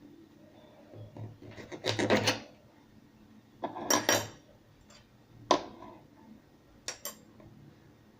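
Scraping and knocking against a plastic tub while glue is emptied into it for slime: two longer scrapes, a sharp click, then two quick taps near the end.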